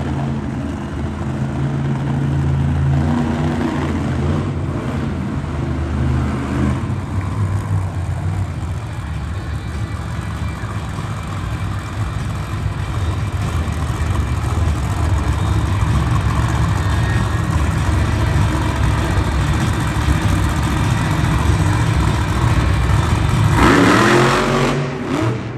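Grave Digger monster truck's supercharged V8 running hard and revving up and down throughout the run, with a sharp rev that rises and falls near the end.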